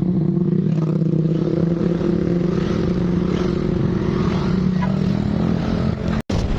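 Motorcycle engine running at a steady speed, an even low drone with a constant pitch. It cuts out abruptly for a moment near the end.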